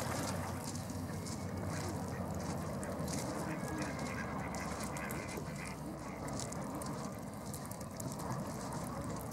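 Waterfowl giving a few faint calls over a steady low background rumble.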